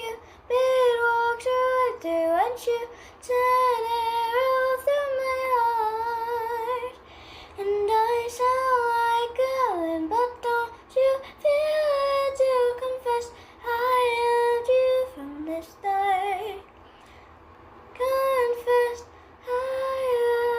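A girl's high voice singing a melody alone, with held notes that slide up and down, pausing briefly about two-thirds of the way through.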